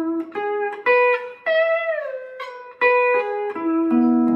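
Lap steel guitar tuned open G (G B D G B D) playing a melody phrase of single plucked notes, with one note sliding down in pitch about halfway through. Near the end it settles on a ringing two-note chord.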